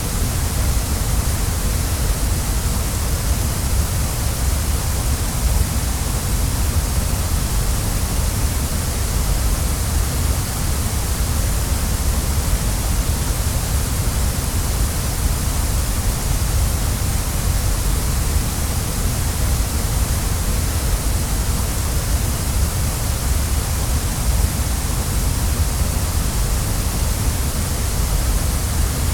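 Waterfall: water falling and splashing in a steady, unbroken rush. It is strongest in the deep low end and hissy at the top, with no single events.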